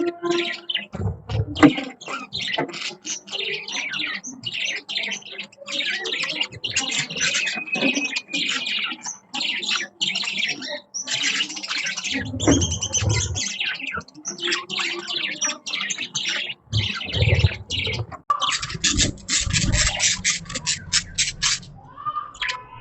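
Budgerigars chattering: a dense, continuous stream of fast high chirps and warbles, with a few low thumps mixed in and a burst of especially rapid chatter near the end.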